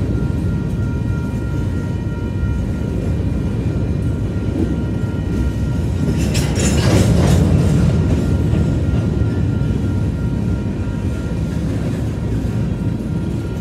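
Covered hopper cars of a BNSF freight train rolling past, a steady low rumble with wheel clatter over the rail joints, growing louder and harsher for a couple of seconds about six seconds in.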